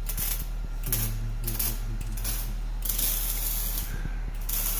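Shop tools working on the exhaust during a muffler delete: an air tool ratchets and whirs in short bursts with hissing air, over a steady low hum.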